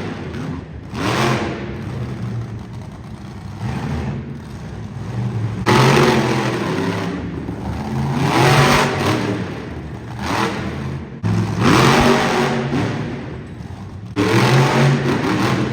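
Monster truck engine running loud and revving up and down repeatedly, with the sound jumping abruptly louder several times.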